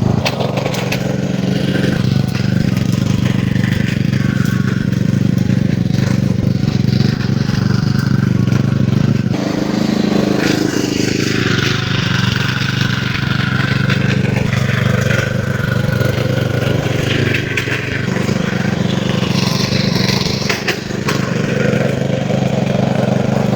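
A small petrol engine running steadily at a constant speed, its note changing a little in the upper range about ten seconds in.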